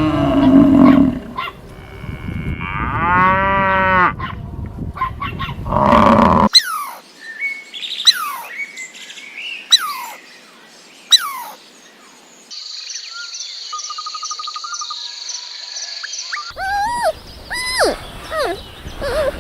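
A run of separate animal recordings: a cow mooing in the first few seconds, then short falling bird chirps about every one and a half seconds. A steady high buzz follows, and near the end come more rising-and-falling chirps.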